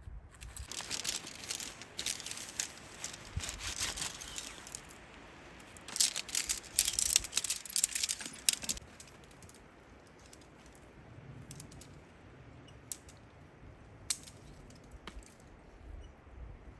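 Handling noise: two spells of rapid rustling and light clinking, the second louder, followed by a few scattered sharp clicks.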